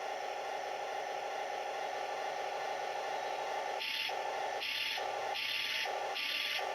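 Taigen Premium V3 gearboxes in an RC Tiger 1 tank whirring at low speed, with a weird noise the owner cannot explain. From about four seconds in, a harsher, higher rasp comes and goes roughly every three quarters of a second, alternating with the steady whir.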